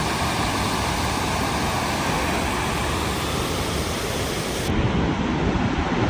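Steady rushing noise with no rhythm or tone; about three quarters of the way through, its hiss drops away abruptly.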